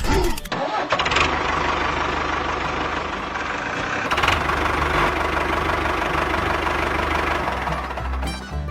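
An engine idling steadily with a low, even chugging pulse.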